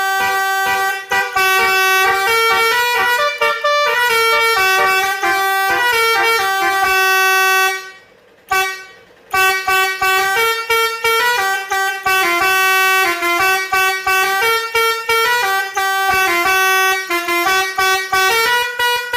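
Road Master 666 eight-tone electronic musical horn playing a loud tune of quick, stepping notes. It stops for about a second some eight seconds in, then plays on.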